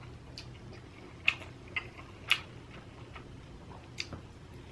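Close-miked eating sounds: a few short, sharp mouth clicks while chewing, spread through the pause.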